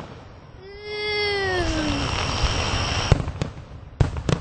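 Aerial fireworks going off: several sharp bangs from about three seconds in and again near the end. Before them comes one long voice-like call that falls in pitch.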